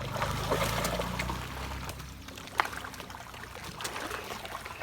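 Water trickling and splashing, with a low steady hum over the first two seconds and a few sharp clicks.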